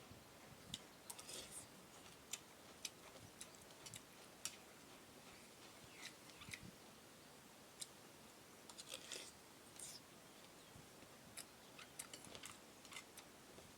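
Someone eating, close to the microphone: faint, irregular small clicks and crunchy smacks of chewing papaya salad and sticky rice.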